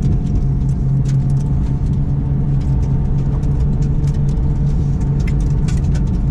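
Car driving at a steady speed: engine and road noise with a steady low drone that holds one pitch.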